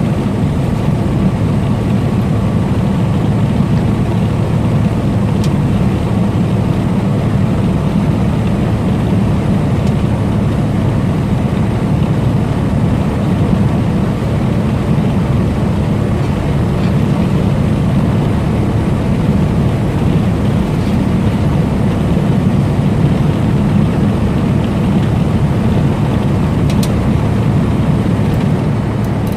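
Steady drone of a semi-truck's engine and road noise while cruising on the highway.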